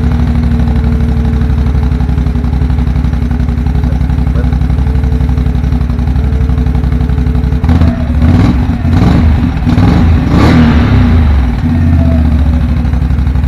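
2018 Can-Am XMR 570 ATV's Rotax V-twin engine running on its stock exhaust, just after starting. It idles steadily, is revved up and down several times about eight seconds in, then settles back to idle.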